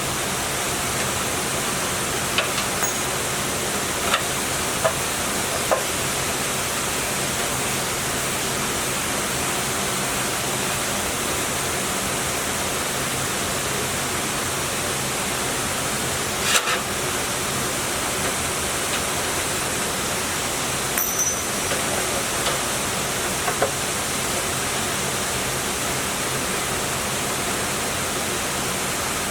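A steady rushing noise like running water or a hissing machine, with a few faint clicks and knocks scattered through it.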